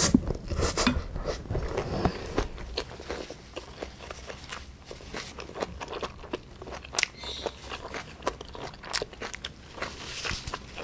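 Close-up chewing of a mouthful of bibimbap with crunchy vegetables: a steady run of wet mouth clicks and crunches. There is a louder clatter of the spoon in the stainless steel bowl right at the start.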